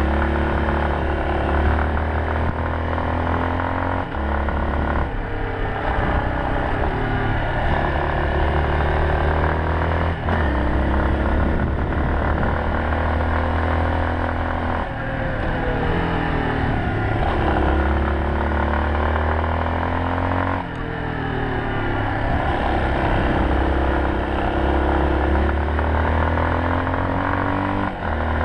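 Yamaha Serow 250's air-cooled single-cylinder four-stroke engine running while ridden, its revs rising and dropping back several times.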